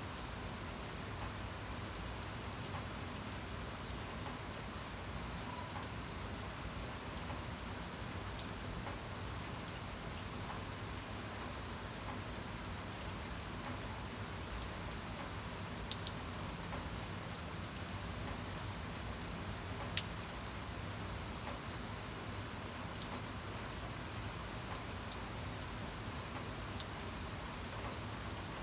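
Steady rain falling, an even hiss with scattered sharper drop ticks, a few louder ones standing out.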